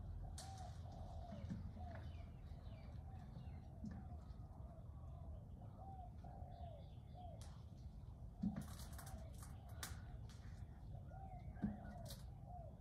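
A bird calling over and over in short, low notes that rise and fall, over a faint low rumble. Two soft knocks come past the middle and near the end.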